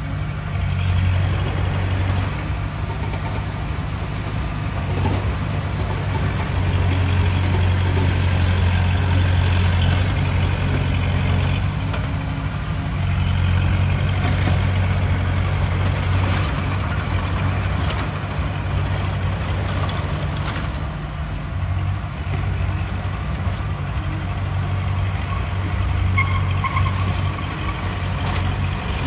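Heavy diesel earthmoving machinery, a bulldozer or dump truck, running steadily under load at a low drone that swells and eases every few seconds.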